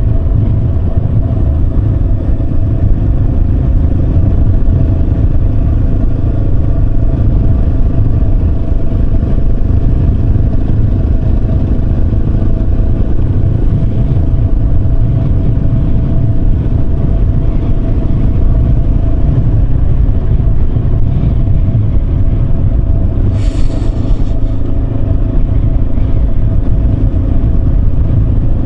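Yamaha Serow 250's single-cylinder engine running steadily while riding, over a heavy low rumble. About two-thirds of the way through, a brief shrill sound with several tones cuts in for about a second.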